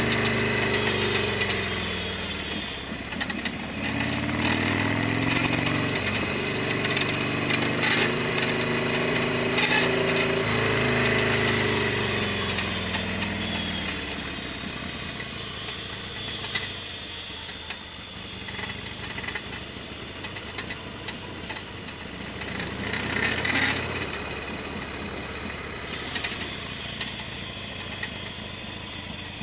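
Harley-Davidson Sportster 1200's air-cooled V-twin running while ridden, its pitch rising and falling as it revs through the first half, then dropping to a quieter, steadier run. Scattered sharp clicks and knocks come through, the strongest about 23 seconds in.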